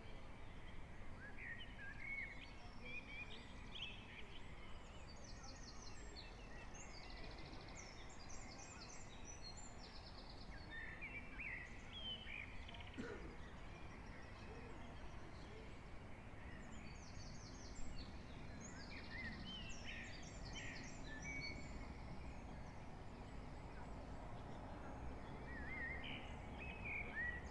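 Several birds singing in a pre-dawn chorus, with scattered chirps and two bouts of quick, high repeated notes. Underneath runs a faint, steady low rumble of the town.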